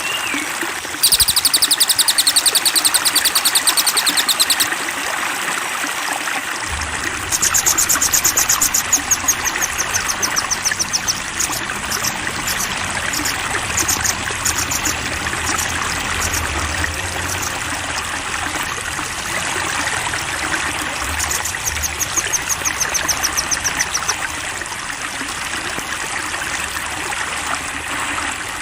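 Steadily flowing, trickling water, over which small songbirds sing high, very rapid trills in several bouts: one about a second in, a longer falling trill run at about a quarter of the way through, scattered notes, and another trill near the middle.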